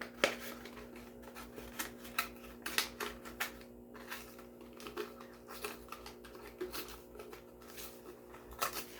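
Hard plastic blister packaging of a die-cast toy car being pried and pulled open by hand: irregular clicks, snaps and crackles of plastic, over a steady low hum.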